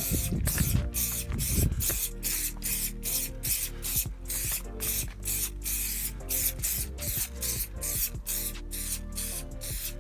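Aerosol can of Muc-Off Fabric Protect spraying in many short hissing bursts, a few a second, as the waterproofing is applied to fabric, with music playing underneath.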